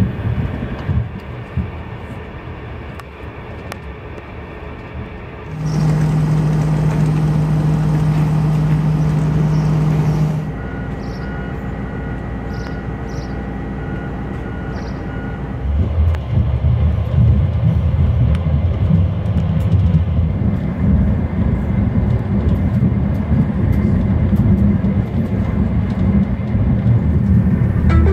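Sounds of a Renfe Alvia passenger train in several cut-together parts. It rumbles along at first. About five seconds in, a loud steady low hum takes over. Next, at a station stop, comes a row of short, evenly spaced high beeps, like a door-closing warning. From about halfway, the train's loud low rumble is heard from inside the carriage while it runs.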